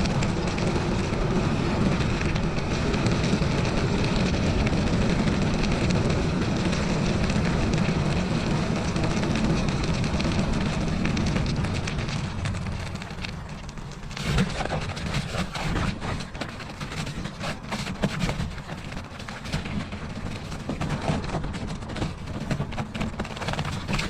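Bicycle riding on a snowy trail: a steady rumble of wind on the microphone and tyres rolling. About twelve seconds in it eases off into softer, irregular crunching and clicking of snow.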